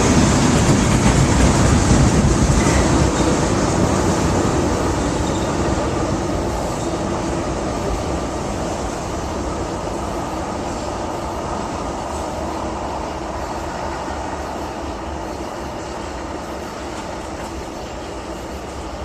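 Loaded crude oil tank cars of a freight train rolling by on the rails: a steady rumble and rattle of wheels on track that slowly fades as the train moves away.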